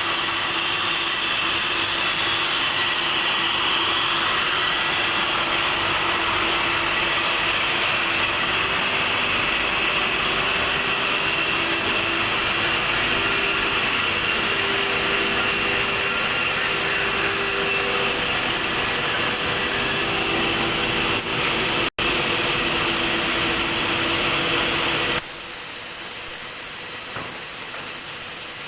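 PVC extrusion machinery running with a steady whirring hiss and a faint wavering hum. The sound cuts out for an instant about three-quarters of the way through, then drops abruptly to a quieter, thinner machine noise.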